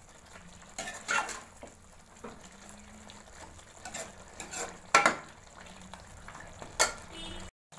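A spoon stirring and frying chicken masala in a karahi, scraping and knocking against the pan in irregular strokes over a faint sizzle. The sound drops out abruptly for a moment near the end.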